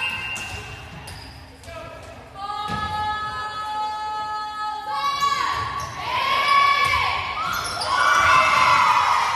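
Girls' volleyball match in a gym. A long held high tone about a third of the way in gives way to high-pitched voices shouting and cheering, with low thumps of the ball or feet in a reverberant hall.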